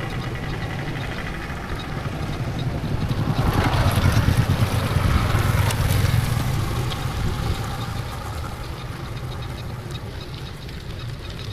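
Motorcycle engine running during a ride, with rapid low pulsing and road and wind noise on the microphone. It grows louder about four seconds in and then eases off.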